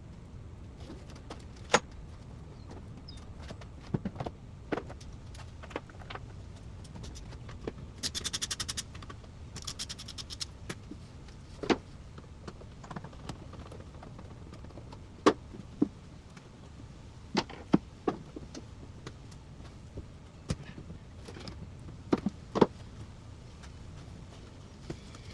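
Scattered metallic clinks and knocks of hand tools on car parts, with two short runs of rapid clicking about eight and ten seconds in.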